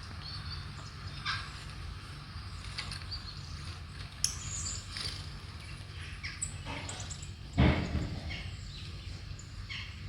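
Short bird chirps and calls from a bird video played through a tablet's speaker, over a steady low hum. A louder low thump about three quarters of the way through.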